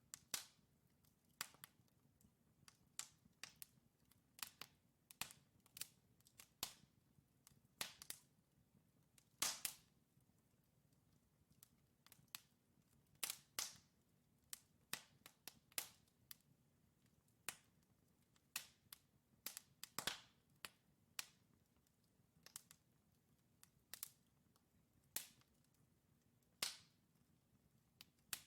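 Wood fire crackling in a fireplace: burning logs giving sharp, irregular snaps and pops, one or two a second, some louder than others, over a faint low hum.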